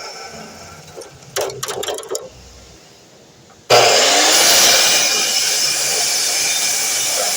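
A few handling clicks and rattles, then a DeWalt miter saw motor switches on about halfway through, its pitch rising briefly as it spins up, and runs loud and steady.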